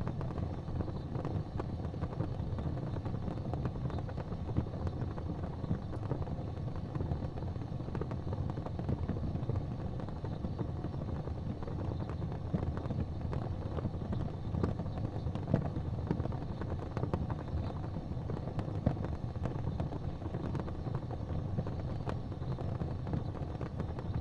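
Wood fire burning in a fireplace: a steady low rumble of flames with frequent small crackles and a few louder pops.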